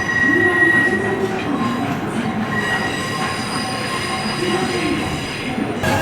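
Freight train rolling slowly on the rails, its wheels squealing in several steady high tones over a running rumble. Near the end a louder, different set of squeal tones starts in.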